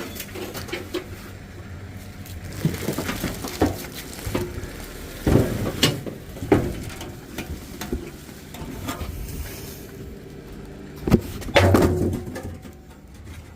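Rummaging through scrap and junk in the back of a van: metal objects clanking and scraping against each other amid rustling, with scattered sharper knocks, the loudest a couple of seconds from the end.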